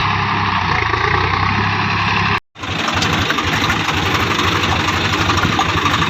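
Swaraj tractor's diesel engine running steadily. The sound cuts out abruptly for a split second about two and a half seconds in, then comes back as a fast, even beat of engine strokes.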